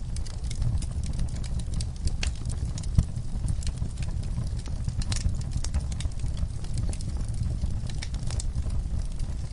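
Wood fire crackling in a fireplace: irregular sharp pops and snaps over a low, steady rumble of the burning logs, with one louder pop about three seconds in.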